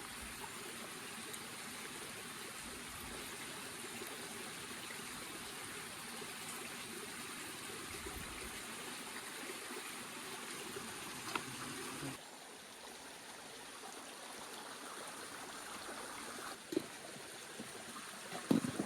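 Steady rushing of a flowing stream, dropping a little in level about twelve seconds in, with a couple of faint clicks.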